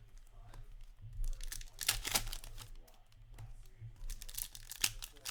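Hockey trading card packs being torn open, the wrappers tearing and crinkling in two bursts, one about a second in and another near the end.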